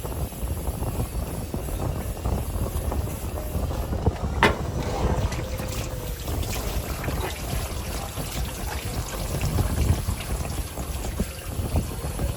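Steady low rumble with one sharp knock about four and a half seconds in, followed by a brief ringing tone and scattered fainter knocks.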